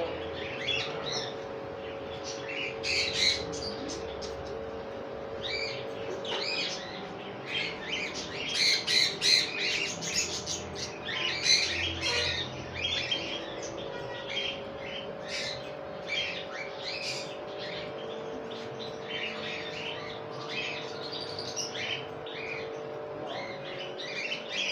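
Many caged birds chirping and squawking in a busy, overlapping chorus of short high calls, busiest about a third of the way in, over a steady low hum.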